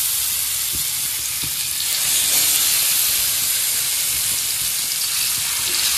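Masala-marinated chicken drumsticks frying in hot refined oil in a tawa, a steady sizzling hiss, with a few faint knocks as more pieces are set into the pan.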